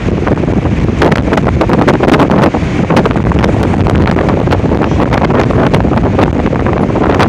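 Strong wind, 40–50 mph gusting to 60 mph, roaring and buffeting the microphone, with a constant low rumble and rapid crackling knocks of wind on the mic.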